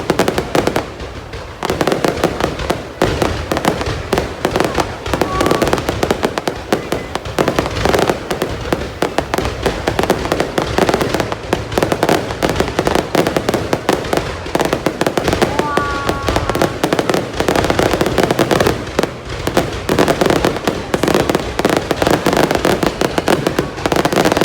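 A fireworks display going off continuously, with rapid, overlapping cracks and bangs and no pause.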